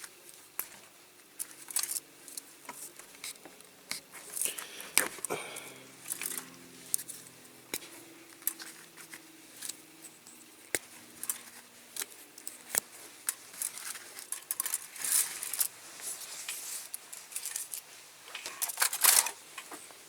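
Small clicks, taps and rustling from handling small toy-car wheels and rubber tyres on a workbench, a little louder near the end.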